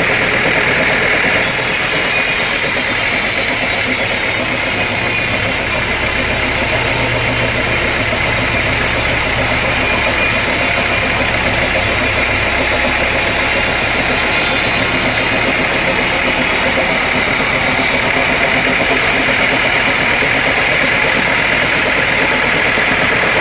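Sawmill machinery running steadily with an engine-like drone and a constant high hum. A deeper rumble comes in about five seconds in and fades again around fifteen seconds.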